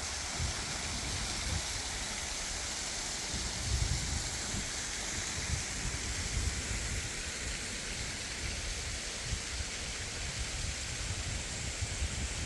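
Steady rain falling on rainforest foliage, an even hiss, with irregular low thumps underneath.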